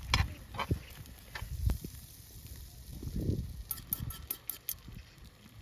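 Cabbage-and-egg toast batter frying in a pan, with a faint sizzle under scattered knocks and clicks from a cooking utensil, including a quick run of sharp clicks about four seconds in.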